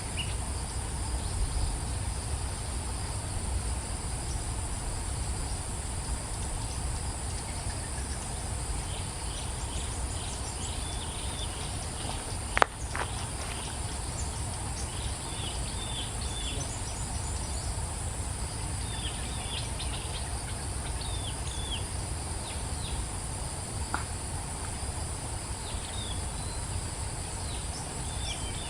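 Outdoor nature ambience: a steady high-pitched insect drone, with short bird chirps that come in scattered bursts from about a third of the way in. A single sharp click about halfway through is the loudest sound, with a fainter one near the end, over a low rumble.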